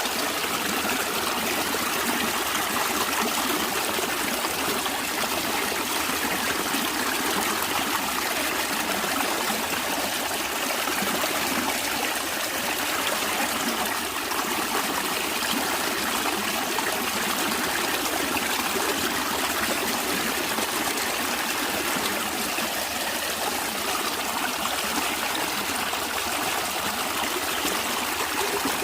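A stream flowing, its running and trickling water making a steady, even rush with no pauses.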